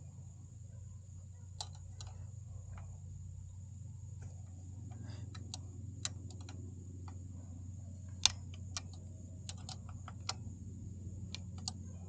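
Irregular sharp clicks and taps of hand tools on metal, one louder click a little past the middle, over a steady low hum.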